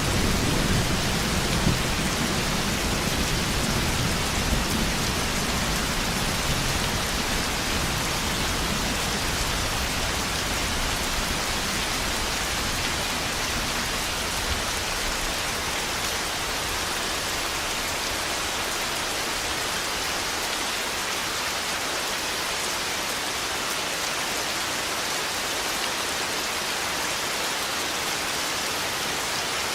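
Steady heavy rain, with a low thunder rumble that dies away over the first several seconds.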